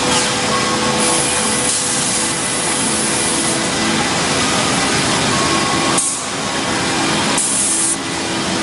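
CNC wood router machining: the spindle and cutter running through wood as a steady, loud hiss and whir, with a short dip in the sound about six and eight seconds in.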